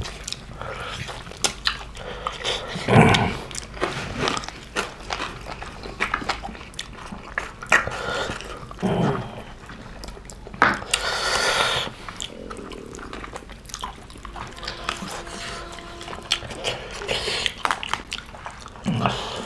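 Close-up eating sounds of pig's feet curry eaten by hand: wet chewing, lip-smacking and sucking at meat on the bone, heard as many short sharp clicks. A longer noisy rush comes about halfway through.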